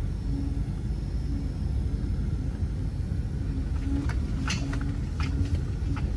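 Vehicle driving with a steady low rumble, with a few sharp clicks about four to five and a half seconds in.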